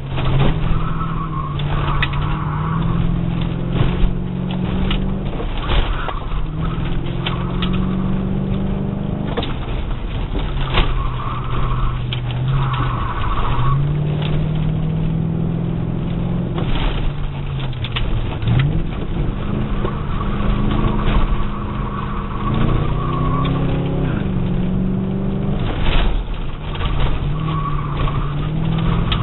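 1997 Ford Thunderbird's engine heard from inside the cabin through an autocross run, its pitch rising under acceleration and dropping off again several times. Short stretches of tire squeal come in at times, with scattered knocks.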